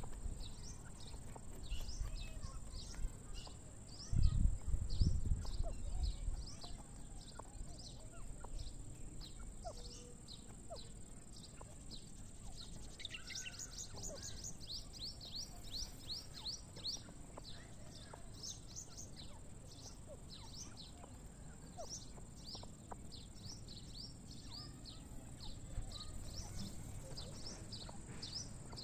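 Birds chirping outdoors: a long series of short, high chirps, two to three a second, with a faster run about 13 seconds in, over a steady high hiss. Low rumbles of wind or handling on the microphone come around 4 to 6 seconds in.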